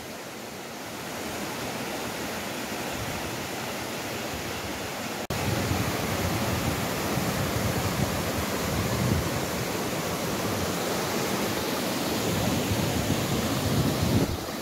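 Steady rushing of a waterfall pouring into a pool, a constant noisy roar of falling water that jumps abruptly louder about five seconds in.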